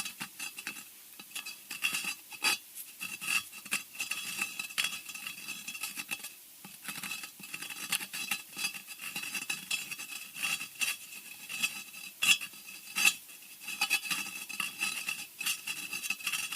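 Scratching sound effect: irregular, rapid scratches and sharp clicks against a hard surface, with a thin shrill ring running under them.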